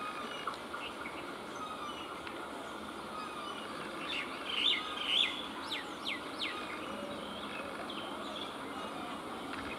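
Small birds chirping and calling over a steady outdoor background noise, with a cluster of quick, sharp calls about halfway through that stands out as the loudest part.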